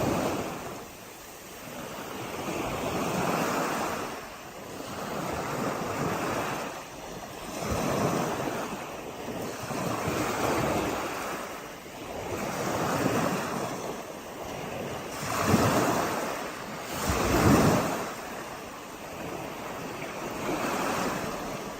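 Waves washing in and out at the edge of a sandy beach, each surge swelling and falling away every two to three seconds, the two loudest coming a little past the middle.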